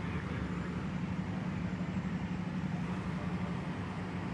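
A vehicle engine idling: a steady low hum that neither rises nor falls.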